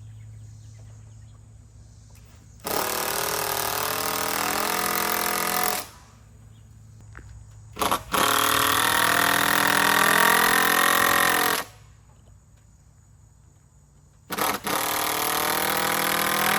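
Power screwdriver driving screws into a wooden beam: three runs of about three seconds each, the motor's pitch shifting as each screw goes in, with a short blip on the trigger before the second and third. A steady low hum continues in the pauses between.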